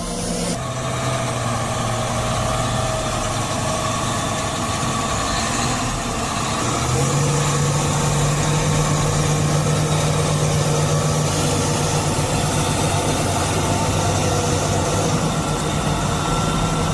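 Tractor engine running steadily; about seven seconds in it rises in pitch and gets louder, then holds there.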